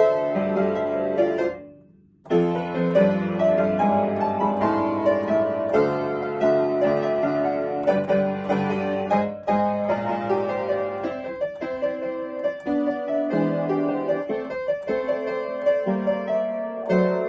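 Piano playing a melody over chords. The sound breaks off briefly about two seconds in, then the playing picks up again.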